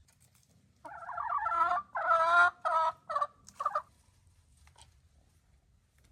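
Poultry calling: a loud run of pitched calls about three seconds long, broken into several short pieces, beginning about a second in.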